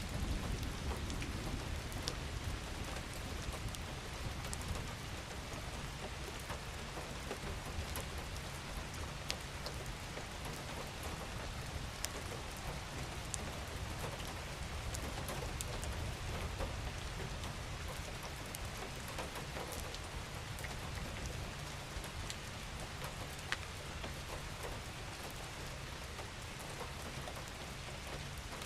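Steady rain falling on a surface, a constant hiss with scattered individual drops ticking sharply, over a low rumble that is a little stronger at the start.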